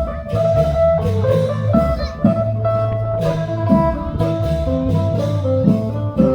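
Band music: a plucked, guitar-like lead melody over held low notes, with a drum kit keeping a steady beat.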